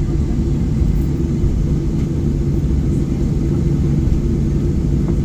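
Steady low rumble of a Boeing 737-800's engines and airframe heard from inside the passenger cabin, with a faint steady hum running through it.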